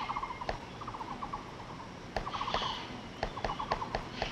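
Taiwan barbet chiselling a nest hole in a dead tree: scattered sharp taps, with short runs of rapid ticking repeated every second or so.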